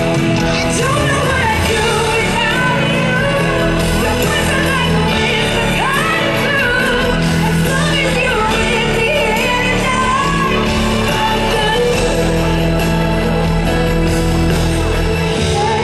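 Live pop ballad: a woman's solo singing voice, with long held, bending notes, over a band accompaniment with sustained bass notes.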